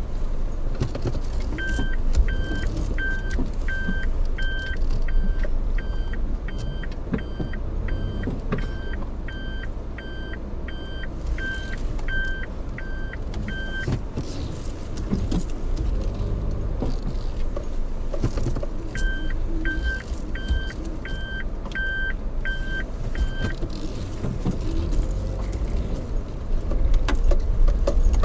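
Steady low rumble of a moving vehicle, with a repeating electronic beep about twice a second that sounds in two spells, one long and one shorter.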